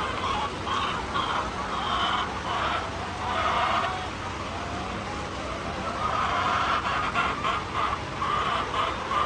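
A large flock of hens clucking and calling together in a continuous, overlapping din, over a steady low rumble.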